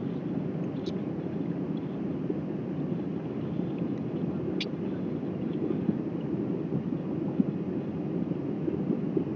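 Steady low rumble of an Airbus airliner taking off, with a few faint clicks and one sharper click about four and a half seconds in.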